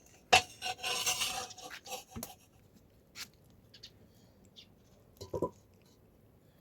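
Metal utensils and dishes clinking and scraping: a quick run of sharp clinks in the first two seconds or so, then a few faint scattered ticks and a brief knock about five seconds in.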